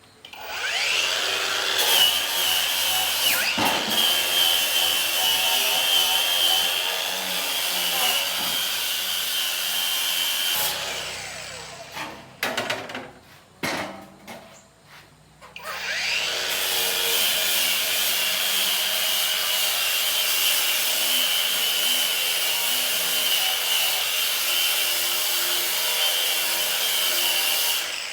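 An electric power tool spins up and runs steadily for about ten seconds, then stops. After a few knocks and clatter it spins up again, runs for about eleven more seconds and cuts off near the end.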